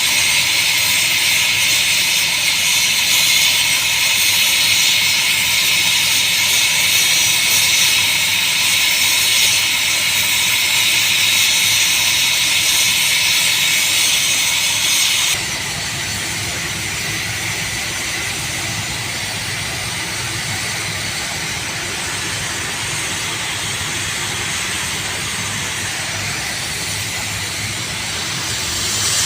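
Geothermal steam vent (fumarole) hissing steadily. The rush is loud and strong in the high range, then drops in level and loses some of its brightness about halfway through.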